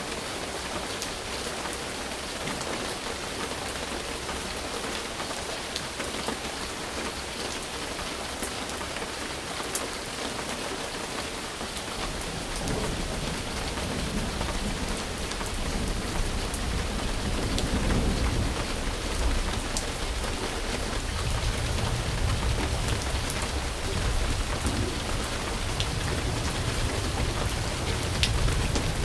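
Steady rain falling in an even hiss of drops, joined about halfway through by a low, rolling rumble of thunder that grows and carries on.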